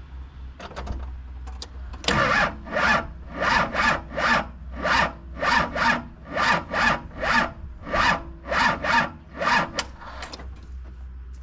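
Worn starter motor slowly cranking a Cummins 5.9 diesel engine, about two labouring turns a second. It stops after some eight seconds without the engine catching: the starter is tired and failing.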